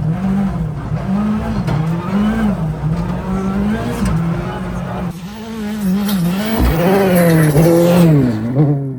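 Ford Fiesta ST rally car's engine revving up and down again and again as the car is driven hard on ice, loudest about two-thirds of the way in.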